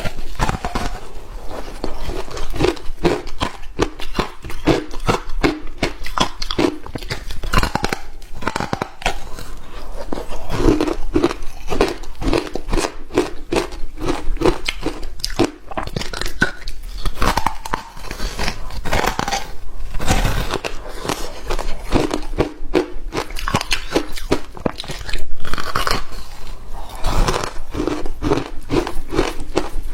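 Hard frozen ice being bitten and chewed close to the microphone: a dense run of sharp crunches, one after another, with one especially loud crunch about 25 seconds in.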